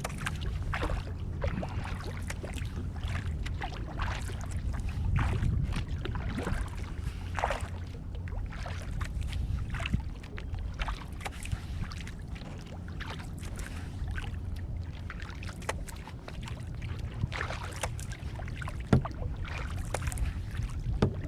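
Kayak paddle strokes: irregular splashes and drips of water as the blades dip and lift, over a steady low rumble. A single sharp knock about nineteen seconds in.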